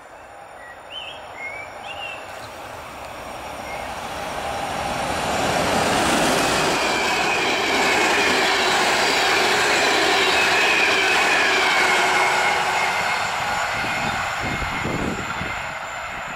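PKP InterCity passenger train hauled by an EU44 'Husarz' (Siemens Taurus) electric locomotive approaching and passing close by: the rumble of wheels on rail builds, stays loud for several seconds as the carriages go past with a high wavering wheel squeal, then fades as the train moves away.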